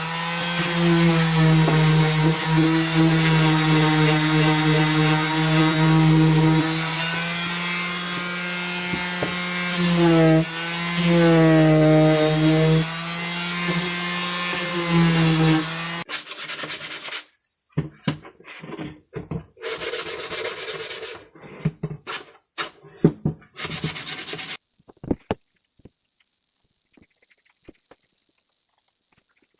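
Electric power tool's motor running on wood with a steady hum, its pitch dipping several times as it takes load. It stops about halfway through, leaving a steady high-pitched drone and scattered light taps.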